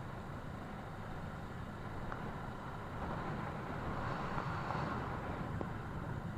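Steady rumble of a motorcycle on the move, engine and road noise mixed with wind rush, swelling a little about halfway through.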